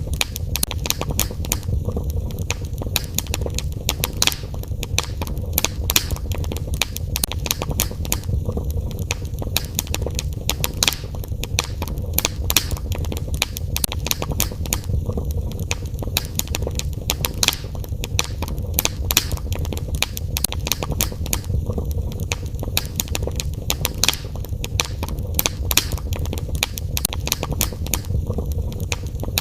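Fire burning in a fireplace, crackling with frequent sharp pops at irregular intervals over a steady low rumble.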